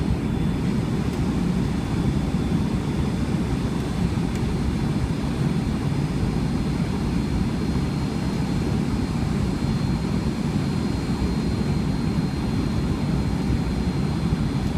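Steady cabin noise inside a Boeing 757 airliner: an even, low rush of jet engines and airflow with a faint high whine, unchanging throughout.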